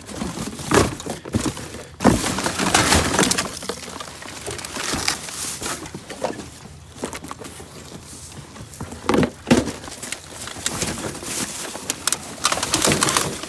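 Rummaging through junk in a dumpster: objects clattering, scraping and knocking as they are shifted about, with several sharp impacts, the loudest about a second in, at two seconds and near nine and a half seconds.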